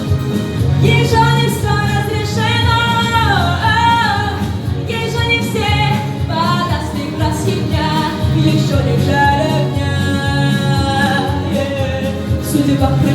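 A teenage girl singing a pop ballad solo, with held notes and vibrato, over a steady instrumental accompaniment.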